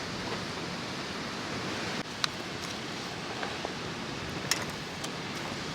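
Steady, even outdoor background rush, with two small sharp clicks about two seconds and four and a half seconds in.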